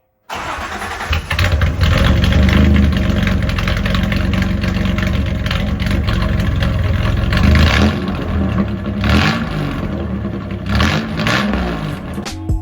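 1993 Toyota pickup engine running loud through a straight pipe with only the catalytic converter and no muffler. It comes in abruptly and idles, with a few quick revs in the second half.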